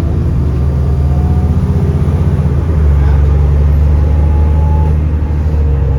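Diesel engine of an Alexander Dennis Enviro400 double-decker bus running under load, heard on board. A low, steady engine note shifts and grows louder about halfway through.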